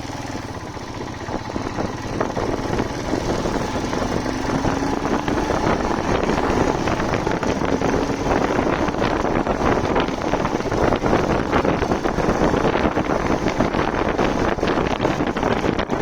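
Motorcycle engine running under way, with wind rushing and buffeting over the microphone; the noise grows louder about two seconds in and stays loud.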